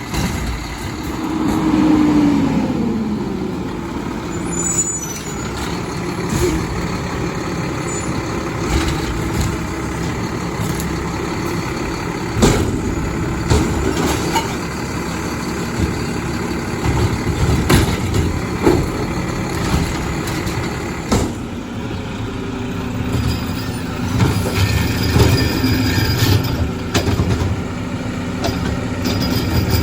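Garbage truck (Mack with McNeilus refuse body) working at the curb: its diesel engine runs steadily, a whine falls in pitch about two seconds in, and a few sharp knocks sound through the middle.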